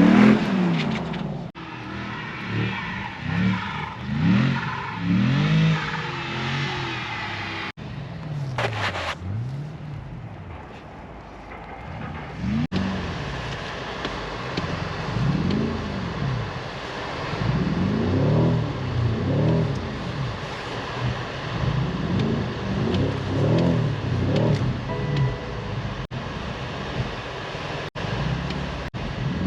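Car engine revved up and let fall again and again, its pitch rising and dropping every second or two, with several abrupt cuts in the sound.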